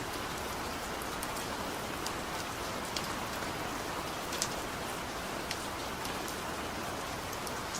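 Heavy rain falling steadily in a dense, even hiss, with a few sharper drop impacts ticking through it.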